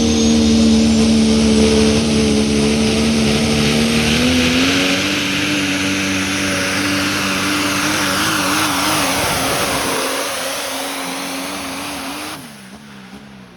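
A pulling truck's engine held at full throttle under heavy load as it drags the sled, with a steady high engine note and a loud hiss over it. The pitch steps up a few seconds in and wavers later. Near the end the throttle is lifted: the sound drops sharply and the pitch falls away.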